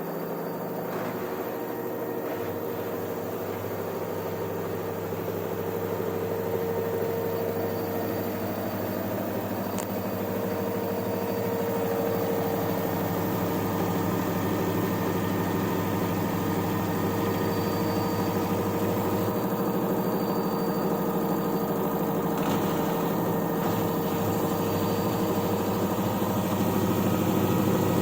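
LG washing machine running with a steady mechanical hum, growing gradually louder over the stretch.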